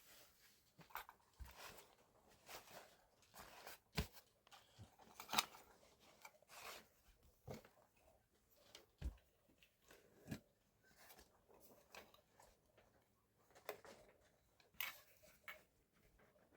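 Faint, irregular crunching and clicking of food being eaten and handled, with a few sharper snaps now and then.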